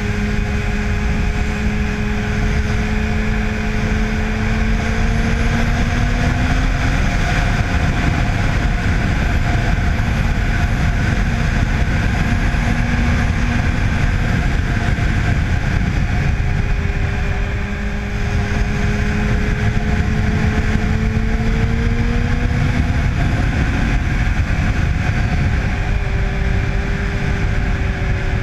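2005 Yamaha FZ1's inline-four engine, fitted with a Dan Moto aftermarket exhaust, running under way over steady wind noise. Its note climbs slowly for several seconds and fades, then does so again later.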